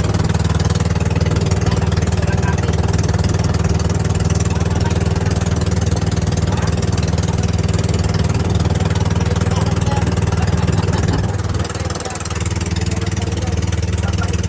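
Engine of a bangka outrigger boat running steadily, heard from on board, easing briefly about twelve seconds in before picking up again.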